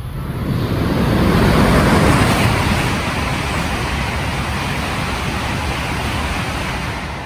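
A Tohoku Shinkansen E6 and E5 series coupled train passes through the station at speed without stopping. The rush of air and wheels swells to a peak about two seconds in, holds steady, then begins to fade near the end.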